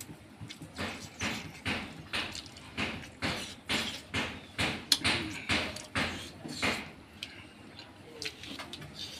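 Close-miked wet chewing and lip-smacking of a mouthful of rice and fried pork, a smack about two or three times a second, with one sharper click about five seconds in; the chewing stops about seven seconds in.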